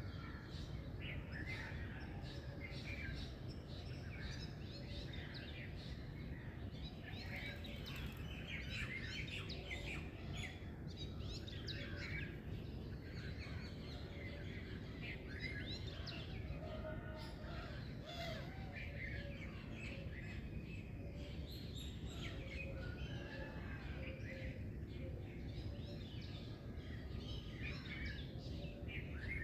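A dawn chorus of many small birds chirping and singing at once, short overlapping calls and trills, over a steady low background rumble.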